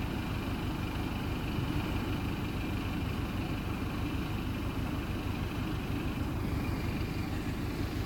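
A car engine running steadily, a continuous low rumble with no revving.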